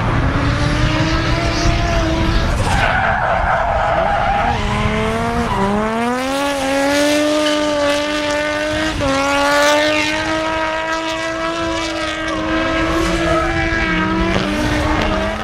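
Turbocharged Nissan RB30DET straight-six (an RB30 block with a twin-cam head and turbo) pulling hard under load. Its pitch climbs, falls sharply about five seconds in and again about nine seconds in, like gear changes, then climbs again.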